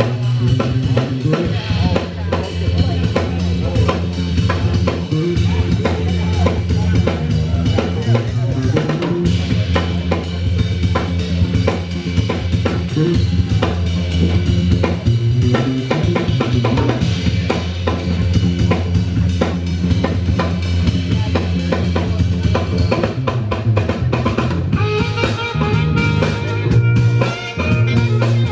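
Live band music at a concert, driven by a drum kit playing busy snare, rimshots and bass drum over a steady bass line. Near the end, held higher melodic notes come in over the drums.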